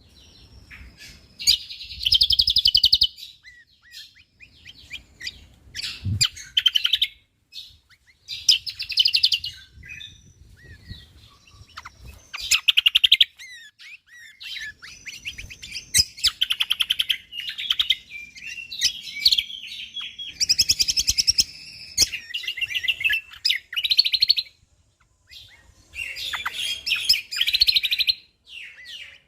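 Cucak kombok (kecial kombok) songbird singing: rapid, high-pitched chattering trills in repeated bursts of a second or two, with short pauses between phrases.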